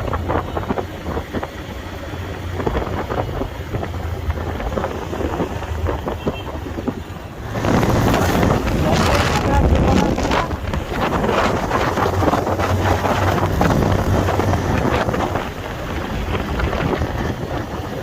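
Wind buffeting the microphone on a moving motorcycle, over engine and road noise. The wind noise gets louder and harsher about seven and a half seconds in.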